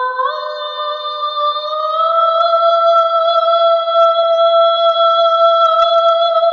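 A single voice holding one long, high sung note without words, sliding up in pitch about a quarter second in and again around two seconds in, then held steady.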